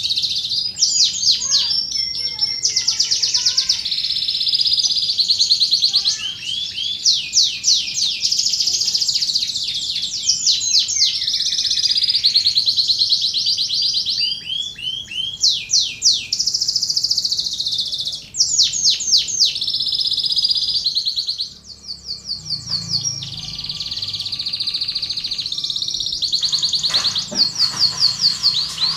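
Domestic canary singing continuously: long fast trills and rapid repeated rising and falling notes, phrase after phrase. Contest-style song of the kind played to train and stimulate other canaries.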